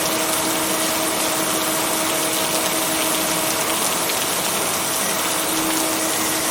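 Steady heavy rain, an even hiss with no breaks, with two steady low tones held underneath it.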